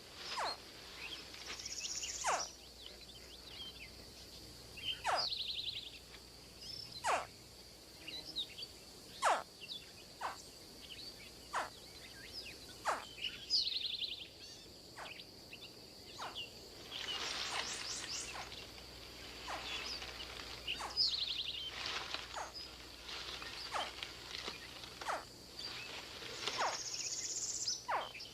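Hatchling American alligators chirping from the nest: short, high calls that drop sharply in pitch, one every second or two. Under them runs a steady high insect drone, and a buzzy trill comes back every few seconds.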